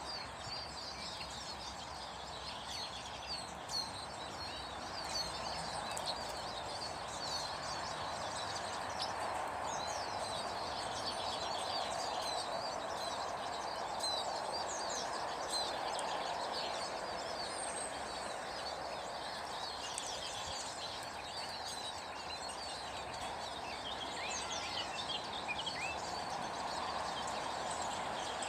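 Many small birds chirping and twittering, short high calls overlapping throughout, over a steady background noise.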